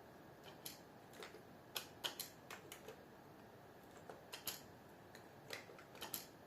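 Keystrokes on a computer keyboard: faint, irregular clicks in short runs, like someone typing a line of text.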